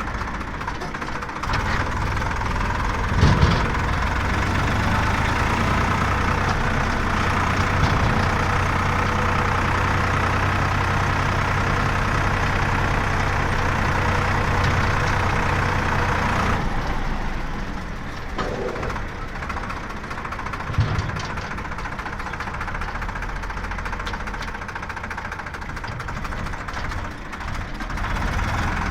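Heavy diesel engine of a JCB loader or tractor running steadily, its revs raised for about fifteen seconds from a second or so in, then settling lower. Two brief knocks stand out, a few seconds in and about two-thirds through.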